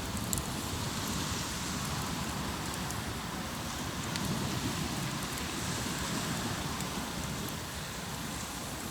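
Hardwood campfire crackling, with scattered small pops over a steady wash of waves breaking on the shore.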